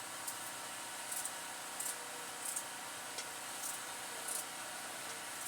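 A knife cutting through carrot on a cutting board: about seven short, crisp cuts, roughly one every 0.7 seconds, with a steady hiss underneath.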